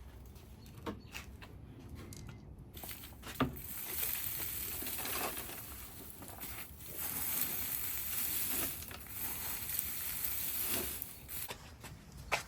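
Rustling and scraping with a few light knocks as a plant container is cleared of old soil and debris by hand.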